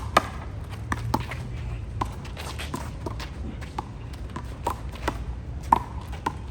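Handball rally: a rubber ball smacked by hand and slapping off the wall and court, heard as sharp smacks at uneven intervals, with players' footsteps on the court.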